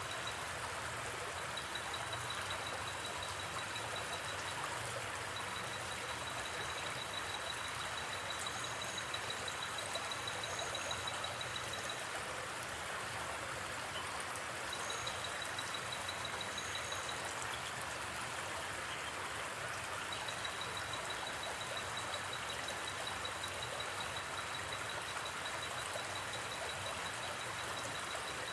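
River water flowing in a steady rush, with a high, rapidly pulsing trill that runs in long stretches and breaks off a few times, and a few faint short high chirps in the middle.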